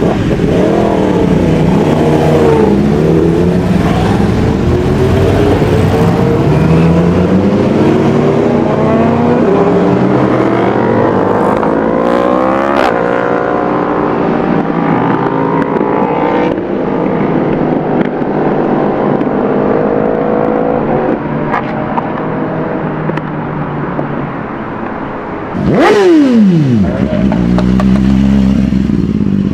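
Sport motorcycle engines revving and accelerating in traffic, their pitch climbing and dropping through the gears. About 26 s in, one passes close by, loud, its pitch falling steeply as it goes.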